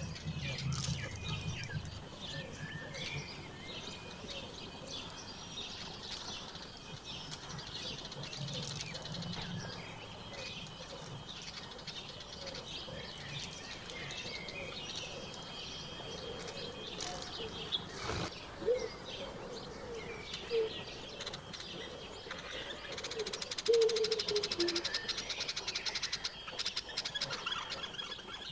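Songbirds chirping and calling, with many short high chirps throughout. A run of lower, repeated call notes comes in the middle, and a fast, high trill starts near the end.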